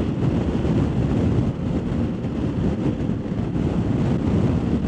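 Wind rushing over the microphone of a BMW R1250GS motorcycle riding at road speed, with engine and road noise underneath.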